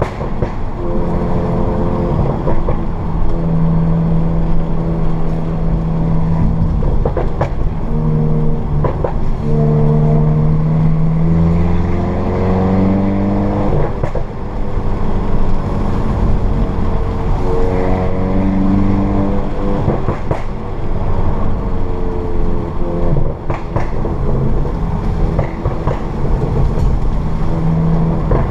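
Volkswagen Mk7 GTI's turbocharged 2.0-litre four-cylinder running through a Borla S-Type cat-back exhaust and APR downpipe on an APR Stage 2 crackle tune. Its note holds steady, then climbs and drops in steps as the revs change through the gears, with a few short sharp pops.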